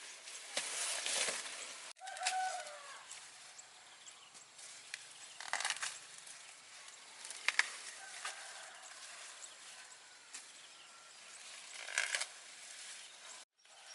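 Intermittent rustling and handling noises, with a brief faint animal call about two seconds in.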